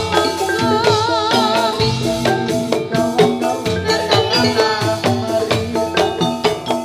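Live Javanese gamelan music accompanying a jathilan dance: bronze metallophones ring out a busy melody over drum strokes, with a wavering melody line about a second in.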